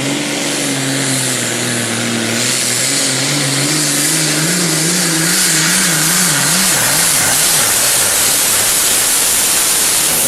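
A 640-cubic-inch John Deere 4430 pulling tractor running at full power as it drags the weight sled down the track. The engine note holds steady, then wobbles rapidly up and down from about four to seven seconds in.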